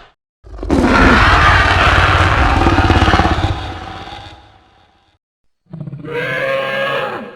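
Allosaurus dinosaur vocal sound effects: a long, rough roar that fades away, then after a pause a shorter growl with a clearer pitch that falls slightly at its end.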